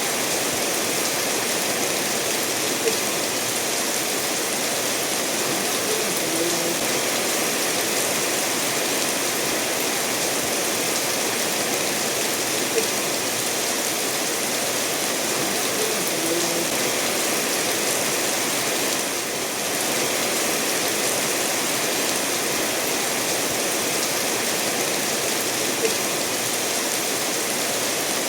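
Steady rain falling, mixed with a stream running over stones, an even unbroken hiss. A few brief louder ticks stand out now and then.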